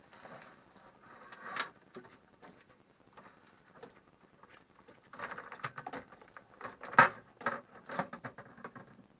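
Irregular knocks, clicks and rustling from objects being handled, busiest in the second half, with the sharpest knock about seven seconds in.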